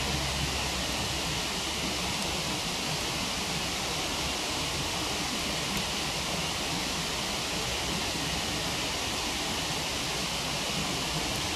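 Steady rushing of a waterfall. A few faint crackles from a campfire come through once or twice.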